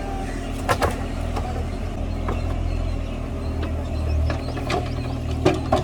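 Mini JCB digger's engine running steadily, with a couple of sharp knocks about a second in and again near the end.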